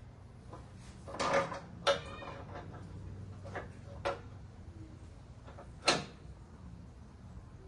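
A handful of short, sharp clicks and knocks, the loudest about two seconds and six seconds in, over a low steady hum.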